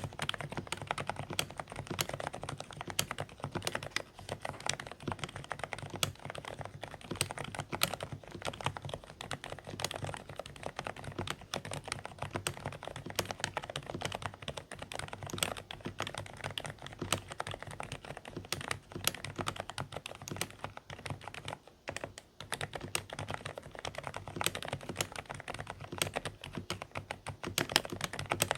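Continuous fast typing on a Dareu A104 Pro mechanical keyboard with silent beige switches: a dense, irregular stream of quiet, slightly muffled keystrokes.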